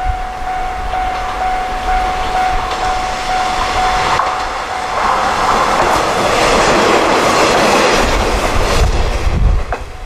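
Two coupled old diesel railcars of the KiHa 20 type passing, wheels clattering over the rail joints. A steady high whine runs through the first half, the noise swells to its loudest about six to nine seconds in, and drops away sharply just before the end.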